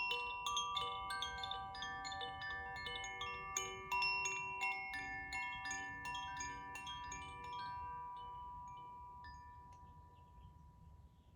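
Koshi chime shaken or swung, its clapper striking the tuned metal rods in a rapid, tinkling run of overlapping bright notes. The strikes thin out about eight seconds in and the ringing dies away to faint near the end.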